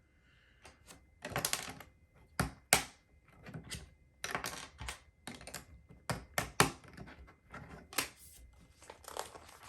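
Plastic LEGO bricks being handled and pressed together: an irregular run of sharp clicks with short rattling clusters.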